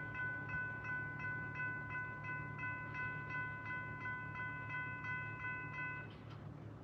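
Level crossing electronic bell chiming at about three strikes a second, then cutting off about six seconds in as the crossing clears after a train has passed.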